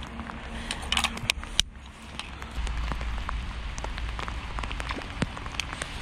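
Rain falling, with many scattered drops ticking sharply close to the microphone over a steady patter. There is a short cluster of clicks about a second in.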